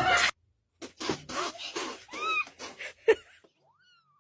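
A cat meowing in a quick run of short calls, then one thin meow that rises and falls near the end.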